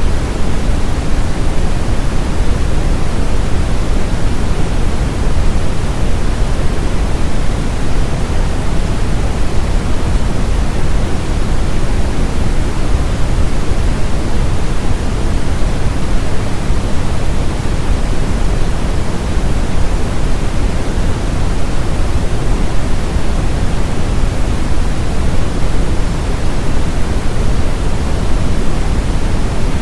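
Steady brown noise: an even, constant rushing hiss, deep and strongest in the bass, with no changes, played for tinnitus masking.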